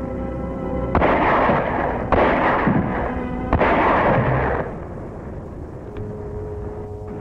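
Film-soundtrack battle effects over dramatic orchestral music: three loud blasts of shellfire about a second apart, each starting suddenly and lasting around a second, then the music carries on more quietly.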